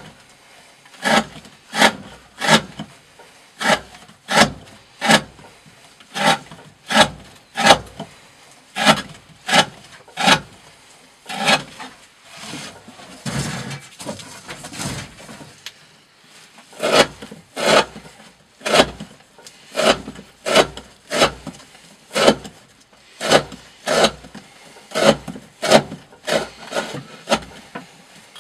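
A D2-steel knife blade slicing through 20 mm rope again and again, one short rasping cut about every two-thirds of a second. The cuts pause for a few seconds around the middle, where there is only a softer rustling.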